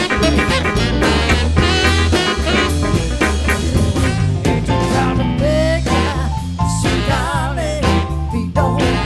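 A live band playing an upbeat number: a steady bass line and drum kit under a lead melody that wavers in pitch with vibrato in the second half.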